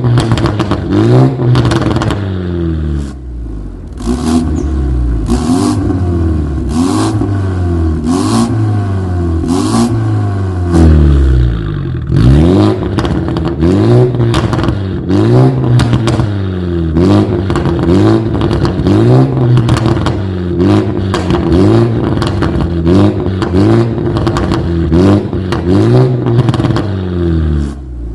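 BMW G20 330i's turbocharged 2.0-litre four-cylinder revved repeatedly in short blips through an aftermarket valved full exhaust system, its pitch rising and falling about once a second. There are sharp cracks from the exhaust in the first third.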